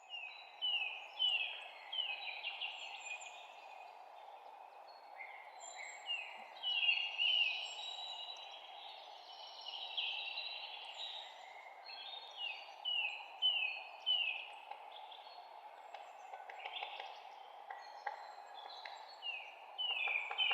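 Several songbirds chirping in a forest: runs of short, high notes that slide downward, repeating throughout. Underneath is a steady background rush.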